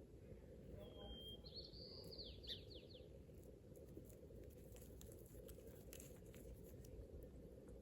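A bird calls once, starting about a second in: a short steady whistle followed by a quick run of high notes lasting about two seconds, over a low steady background hum. Faint scattered ticks follow.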